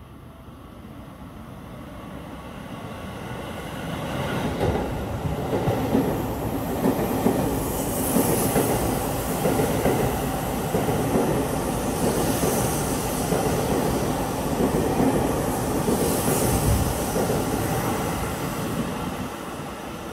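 Seibu 40000-series electric train passing through the station at speed without stopping. Its running noise builds, stays loud with wheel clatter for about fifteen seconds, with brief high-pitched swells every four seconds or so, and dies away near the end.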